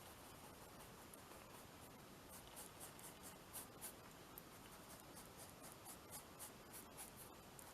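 Faint, irregular scratchy strokes of an art tool working over paper collage on canvas, coming more often through the middle.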